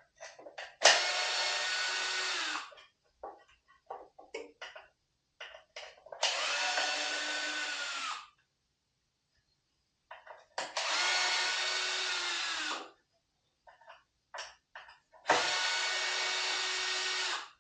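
Cordless drill-driver with a T15 Torx bit backing out small screws: the motor whines in four runs of about two seconds each, with clicks and taps of the screws and parts being handled in between.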